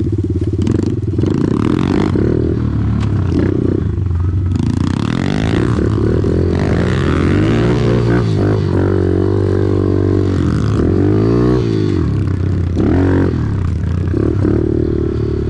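Dirt bike engine running while being ridden along a trail, its revs rising and falling again and again as the throttle is worked, with some clatter from the bike.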